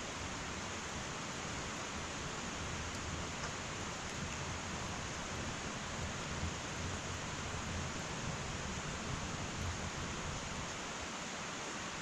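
Wood fire burning in an irori hearth: a steady hiss with a low fluttering rumble and a few faint crackles.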